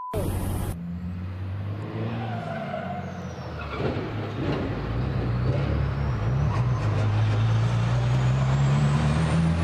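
A truck engine running and slowly gaining revs, its note climbing steadily through the second half, with a faint high whine rising alongside.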